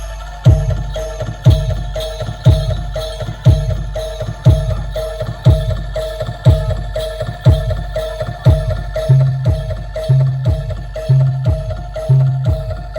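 Bantengan percussion music at a steady beat: a deep drum stroke about once a second, with higher pitched notes struck twice a second between them. A lower pitched note joins off the beat from about nine seconds in.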